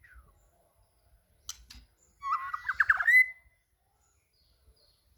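White-rumped shama singing: a short high call about a second and a half in, then a burst of rapid whistled notes and quick upward sweeps, ending in a held whistle.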